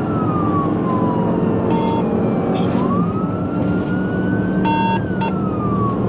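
Police car siren on a slow wail, falling in pitch, then rising over about two seconds and falling again, over a steady engine and road rumble from the speeding cruiser. Two short electronic beeps sound about two seconds and five seconds in.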